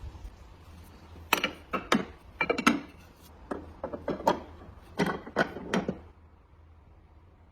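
A quick, irregular series of about a dozen sharp knocks and clacks of hard objects being handled or struck. They start about a second in and stop about six seconds in, over a faint low hum.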